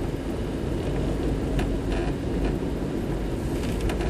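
Steady low road and engine rumble heard inside a moving car, with a few faint ticks.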